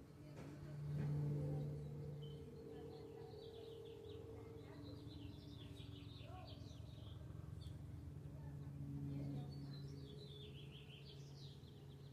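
Small birds chirping in quick runs of high notes, two bursts of them, over a steady low hum that swells briefly about a second in.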